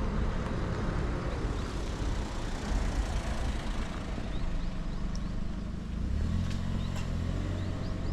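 Harley-Davidson Sportster V-twin engine running at low speed, its low beat turning steadier in the last couple of seconds. A few short high chirps sound over it.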